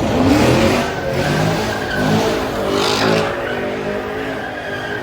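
Car engine revving up and down hard, with tyres squealing.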